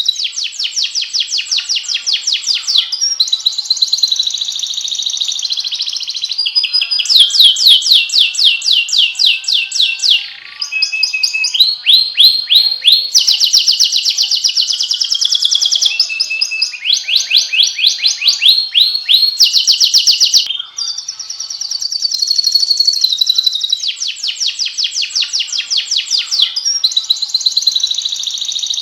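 Domestic canary singing a long, unbroken song of fast trilled phrases. Each phrase is a rapid run of the same high note repeated for a second or two before the bird switches to another trill, with brief breaks about ten and twenty seconds in.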